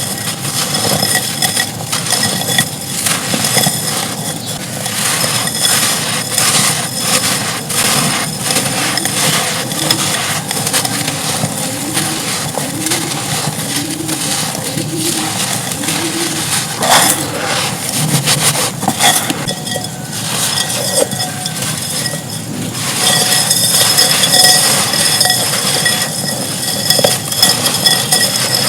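Dry red clay being crumbled: a dense, irregular run of crunches and crackles that gets louder about three-quarters of the way through.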